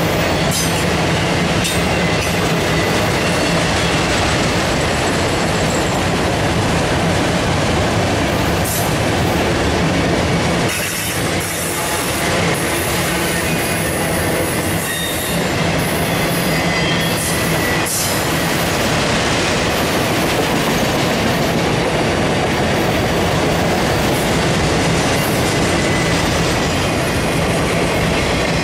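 Autorack freight cars of a CSX freight train rolling steadily past close by. There is a continuous rumble of steel wheels on the rails, with irregular clacks as the trucks cross rail joints and a faint, thin wheel squeal at times.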